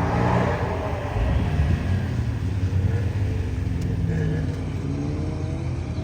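A car engine running, its pitch rising and falling as it revs.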